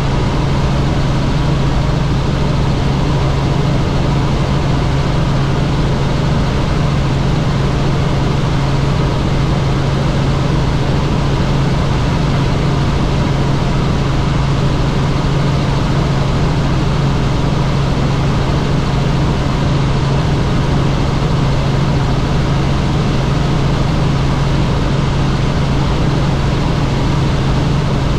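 Helicopter in flight, its rotor and engine noise loud and steady with a constant low hum.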